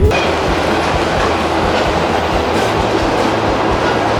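Passenger train running along the track: a steady rush of wheel and rail noise.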